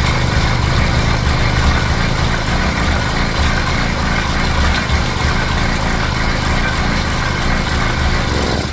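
Motorized bicycle's 80cc two-stroke engine and chain drive turning over steadily, the rear wheel spinning on a bicycle trainer to crank the engine, which has sat unused for years. The sound cuts off suddenly at the end.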